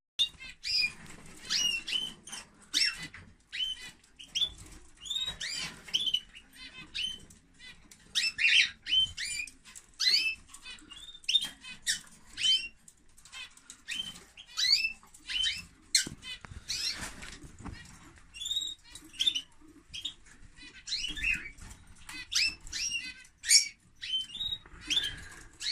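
Caged European goldfinch and canary calling and twittering, a dense run of short, quick chirps with brief gaps, with some wing flutters.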